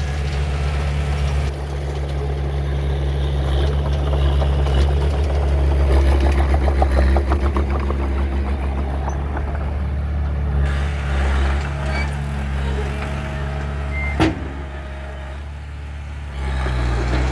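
Heavy diesel earthmoving machine running steadily with a deep engine hum. A rapid rhythmic clatter comes and goes around the middle, and there is a single sharp knock about fourteen seconds in.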